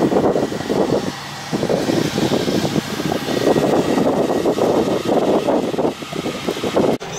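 Chiltern Railways Mk3 passenger train moving off and running past along the platform, a steady rumble with heavy wind buffeting on the microphone. It cuts off abruptly near the end.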